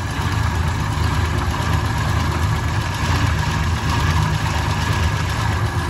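A 1967 Willys Rural's six-cylinder engine idling steadily.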